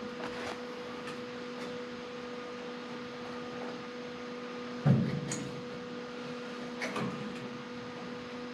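A steady electrical hum, with a few light knocks and one louder knock about five seconds in as the partly cut-out hinge assembly is worked against the sheet-metal body.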